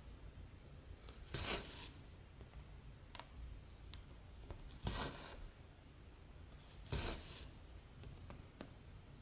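Cotton embroidery thread drawn through cross-stitch fabric three times, each pull a short rasping swish, with faint clicks of the needle going through the cloth in between.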